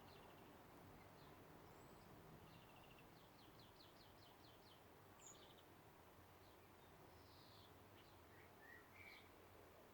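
Faint birds chirping: a quick run of repeated high notes about three seconds in, then scattered short chirps and calls, over a steady low background hum.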